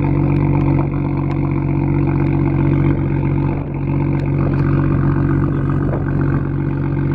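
BMW M2 (F87) inline-six with an M Performance exhaust, running at a steady, unchanging engine speed, with a few faint ticks over the top.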